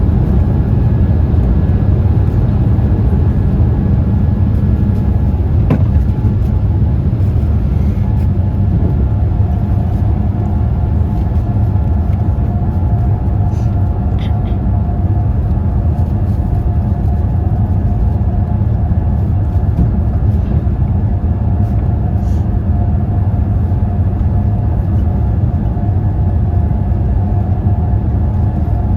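Steady cabin noise inside a Boeing 787-8 airliner in flight: a constant low rumble of engines and airflow, with a faint steady hum that grows clearer about a third of the way in.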